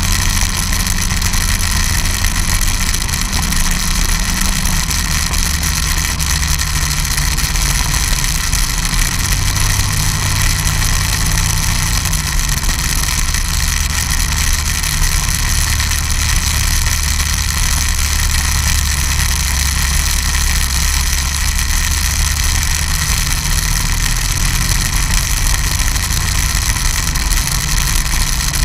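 Snowmobile engine running steadily under way, its low note shifting up and down several times.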